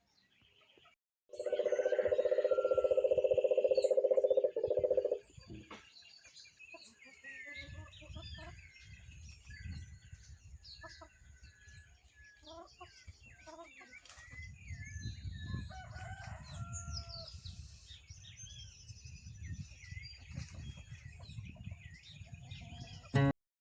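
A rooster crows once in one long drawn-out call, the loudest sound here. Small birds then chirp and tweet over a low rumble, and the sound cuts off suddenly near the end.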